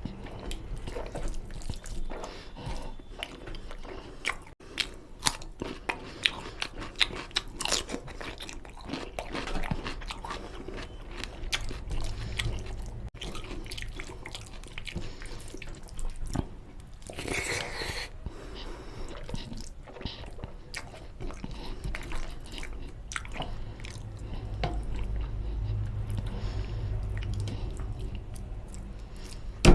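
Close-miked eating of mutton nalli curry with rice: chewing and biting meat off the bone, with many short wet smacks and clicks. A longer, louder noisy sound comes about seventeen seconds in.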